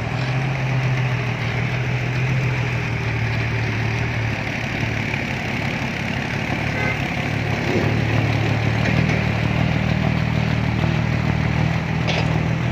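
Diesel dump truck engine running steadily at a low idle-like rumble. Its note drops away for a couple of seconds midway, then comes back.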